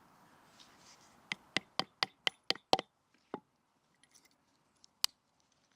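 A wooden baton knocking on the spine of a Swiss Army knife blade to split wood. There is a quick run of about eight sharp knocks, then two single knocks.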